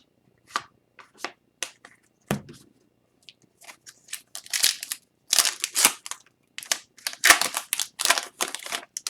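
Hockey trading cards and their foil pack being handled by hand: a string of short dry crinkles, rustles and card flicks, sparse at first and thickening into steady crinkling from about four seconds in.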